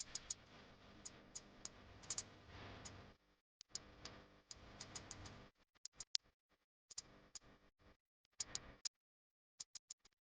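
Faint, irregular sharp clicks over a low background noise that cuts in and out abruptly.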